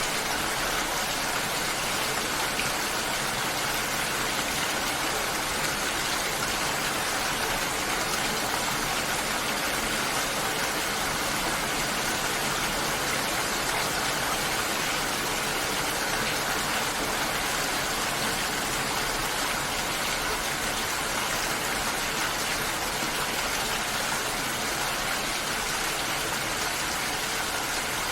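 A steady, even hiss of water with no distinct drops or splashes standing out.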